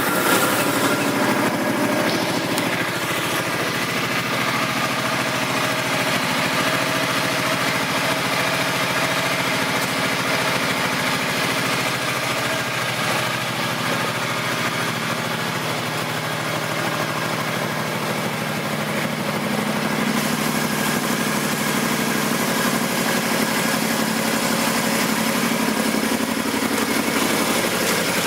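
2005 Suzuki M50 Boulevard's 805 cc V-twin engine idling steadily, freshly started.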